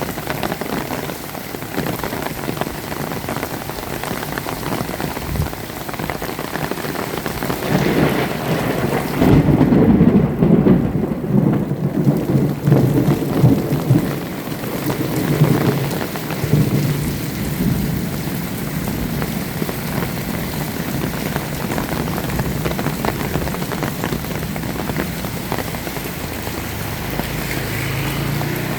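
Steady heavy rain with a peal of thunder: a low rumble swells about eight seconds in, is loudest for a few seconds, then rolls away over the next several seconds.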